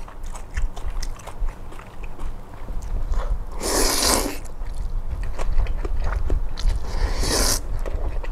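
Close-miked eating of cold bean-soup noodles: crunching and chewing throughout, with two longer slurps, one about halfway through and one near the end.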